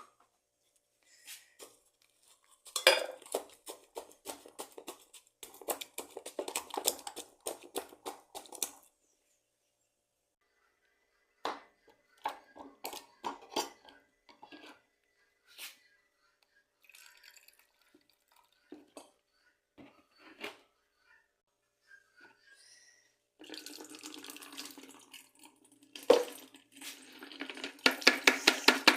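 Short runs of sharp clinks and knocks with quiet gaps between them, ending in a fast, even run of knocks at about four a second.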